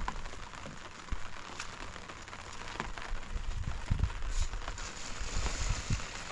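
Steady hiss of rain falling, with scattered ticks of drops and a few low thumps.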